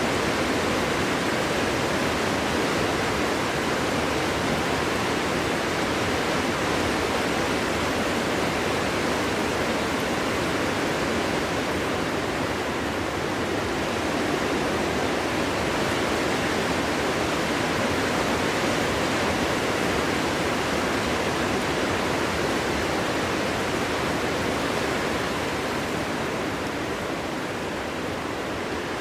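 Steady wind blowing through trees, an even rushing noise, easing a little near the end.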